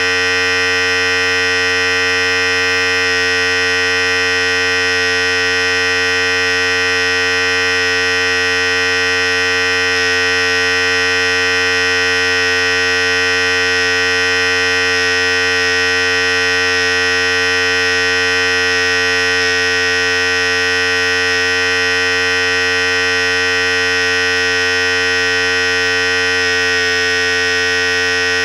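Philips Series 5000 electric hair clipper running steadily: a continuous, even buzz that holds the same pitch throughout, shifting slightly near the end.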